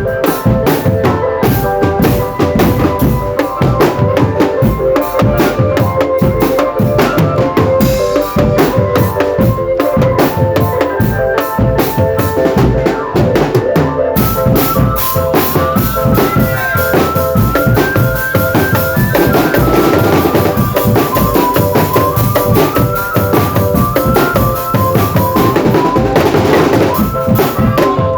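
A drumband playing: a dense, steady beat on marching snare and bass drums, with a tune on pitched instruments over it. From about halfway, a shimmering high wash joins the drums.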